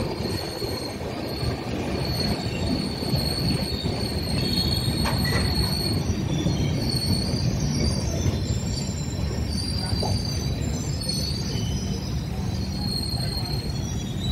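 A passenger train running along the track with a steady low rumble, while high, thin metallic squeals of wheels on rail come and go.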